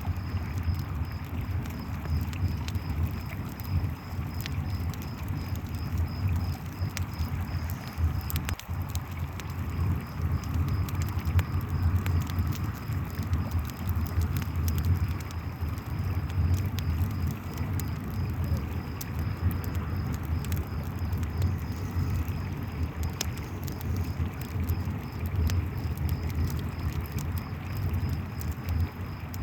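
A river rushing steadily, with crickets chirping in a constant pulsing trill and a campfire crackling in scattered snaps over the top.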